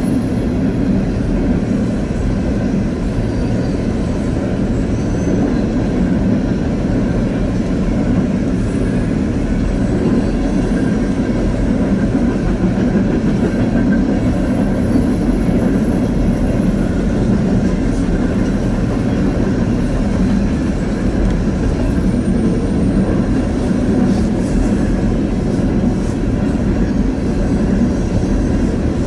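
Empty coal hopper cars of a long freight train rolling steadily past, a continuous rumble of steel wheels on rail.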